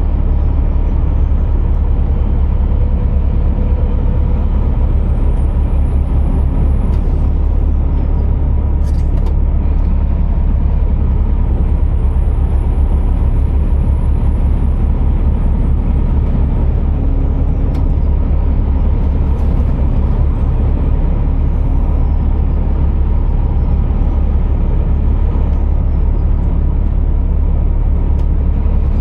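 Scania R480 truck's 13-litre inline-six running steadily: a constant low drone under an even hiss of road and running noise. Faint thin whistles glide up and down high above it.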